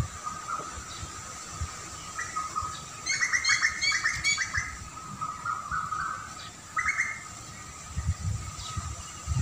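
Birds chirping: a fast run of high chirps a few seconds in, then a few shorter calls, over a faint steady background hum.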